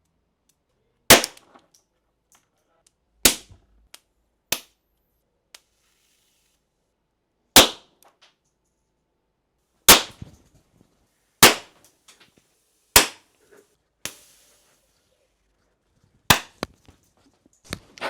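Capacitors exploding one after another: about eight sharp, loud bangs a second or more apart, some followed by smaller pops and a brief hiss.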